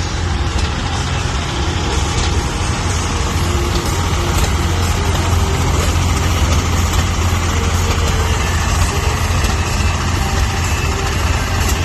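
Deutz F3L514 three-cylinder air-cooled diesel tractor engine running steadily as it pulls the sled down the track.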